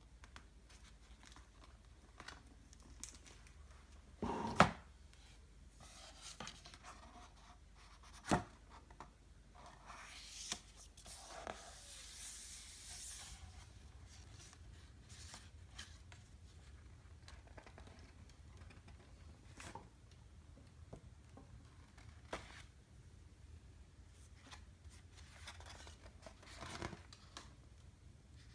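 Pages of a hardback picture book being handled and turned: paper rustling and sliding, scattered light clicks, and two sharper knocks, about four and eight seconds in.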